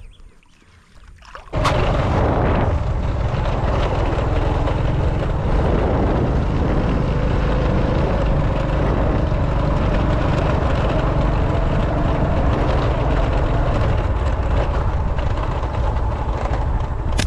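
A small engine running steadily. It cuts in abruptly about one and a half seconds in, after a short quiet spell.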